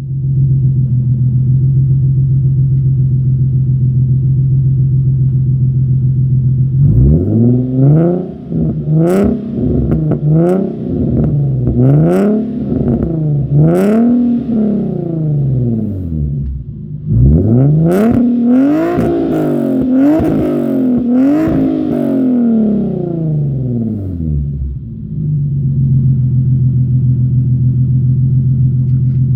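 Nissan 370Z's 3.7-litre V6 through a straight-through Z1 dual race catback exhaust with resonated test pipes: it idles steadily, then is free-revved in two series of throttle blips with sharp pops as the revs fall, and settles back to idle near the end.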